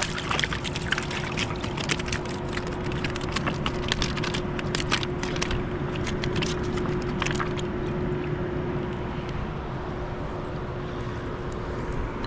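River water rushing steadily. Over the first several seconds there is a run of sharp splashes and knocks as a hooked salmon is brought in by hand at the water's edge. A faint steady hum runs underneath.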